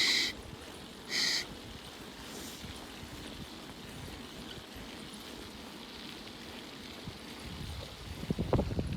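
Steady rushing noise of a bicycle being ridden, tyres and wind on the microphone, with two short high-pitched squeals about a second apart at the start and a run of rattling bumps near the end.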